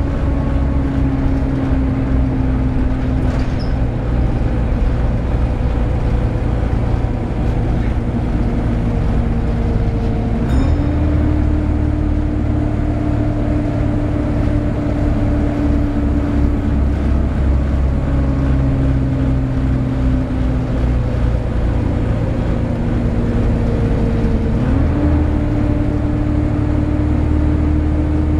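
Volvo B7TL double-decker bus running, with the loud whining 'hoover' drone of its engine cooling fan over a steady low diesel hum. The whine slowly sinks in pitch, then jumps back up about ten seconds in and again near the end.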